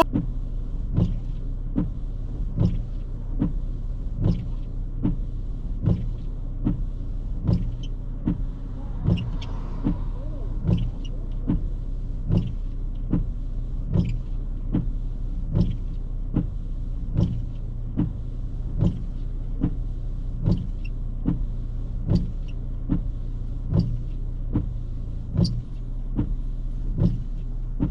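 A vehicle's steady low hum with a regular tick or click a little over once a second, heard inside the vehicle.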